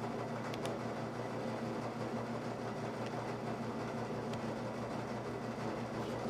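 Steady mechanical hum from a running motor, with a few faint ticks and clicks.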